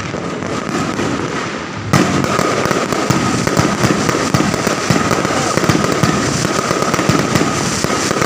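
Fireworks going off: a dense, continuous rapid crackle of many small bangs.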